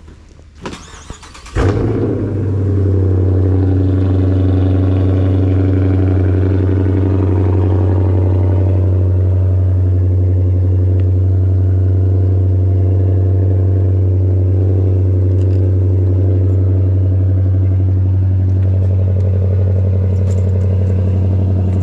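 Chrysler 300 engine cold-starting: a short crank, then it catches with a sudden loud burst about a second and a half in and settles into a steady, loud idle.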